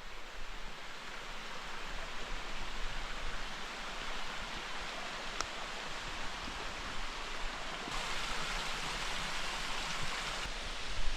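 Steady rush of splashing water from a small waterfall, louder for a couple of seconds past the middle.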